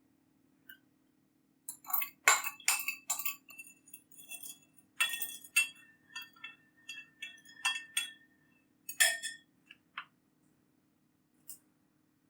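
Spoon clinking against the side of a bowl while stirring sauce into stock: a run of irregular, ringing clinks, thickest in the middle, thinning to a couple of single taps near the end.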